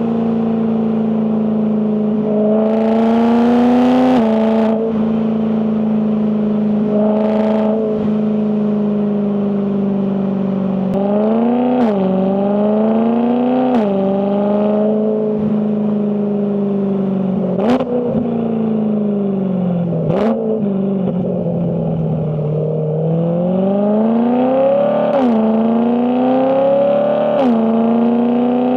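BMW E92 M3's 4.0-litre S65 V8 with a loud exhaust, accelerating through the gears of its DCT gearbox: the engine note rises and drops sharply at each quick upshift, several times over. A few short sharp cracks come in between.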